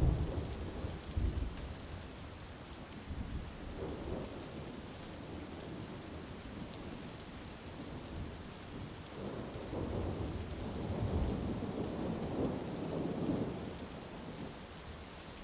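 Steady heavy rain with rolling thunder. A rumble is fading as it starts, a short one comes about four seconds in, and a longer, louder roll builds from about nine seconds and dies away by fourteen.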